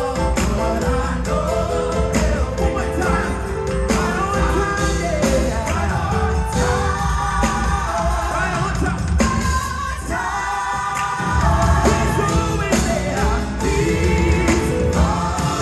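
Live gospel song: voices singing over a full band with a strong bass and a steady drum beat.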